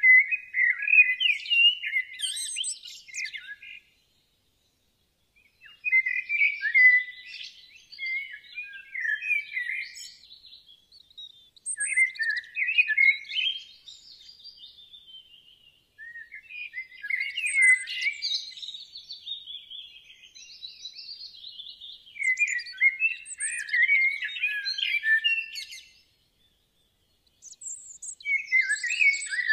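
Songbird singing in a run of rapid chirping, warbling phrases, about six phrases each a few seconds long, separated by short silences.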